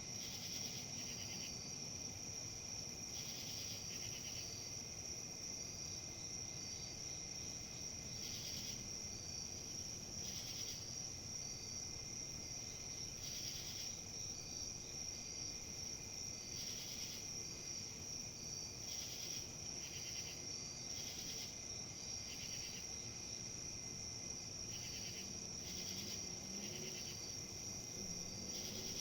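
Outdoor nature ambience: insects chirring steadily in one high continuous tone, with shorter insect trills coming in bursts every few seconds, over a low steady rush of wind.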